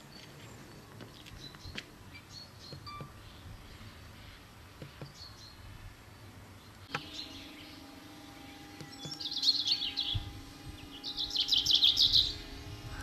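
Small birds chirping, faint at first, then two loud bursts of rapid high chirping about nine and eleven seconds in. From about halfway a steady low hum runs underneath.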